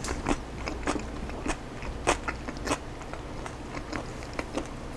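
Close-up chewing of a mayonnaise chicken salad with cabbage: irregular wet mouth clicks and small crunches.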